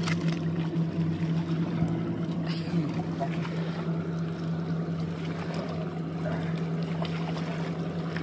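An engine idling steadily, giving an even low hum.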